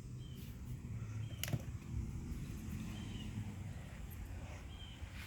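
Outdoor background with a steady low rumble like distant traffic, one sharp click about a second and a half in, and a few faint short high chirps.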